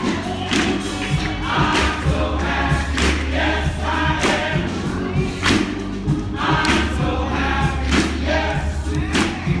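Church congregation singing a gospel song together, with a steady low bass accompaniment and a beat of sharp strikes about twice a second.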